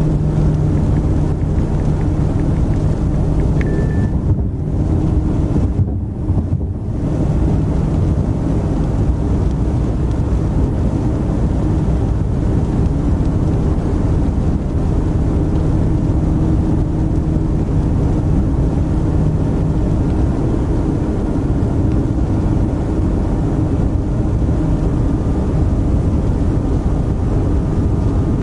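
A moving car's steady engine and road rumble, heard from inside the cabin, with a single short beep a few seconds in.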